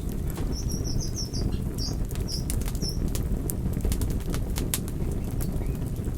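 Campfire burning, with sharp crackles and pops scattered over a steady low rumble. A series of quick high chirps sounds in the first half.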